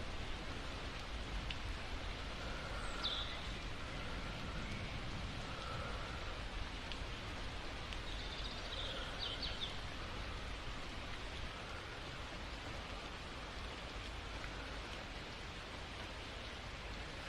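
Steady rain falling, an even patter, with a few short high chirps about three seconds in and again around nine seconds.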